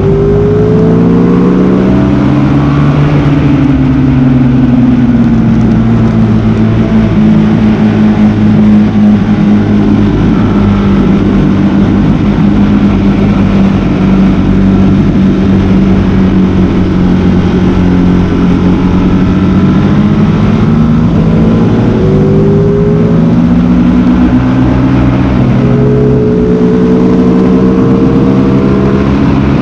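Sport motorcycle engine running hard around a racetrack. Its note climbs and drops with throttle and gear changes and holds a long, slowly falling note through the middle.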